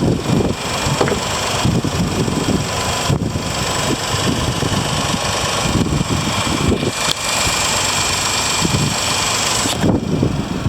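Engine of a 1996 Honda Acty mini truck, a 656 cc three-cylinder kei engine, idling steadily.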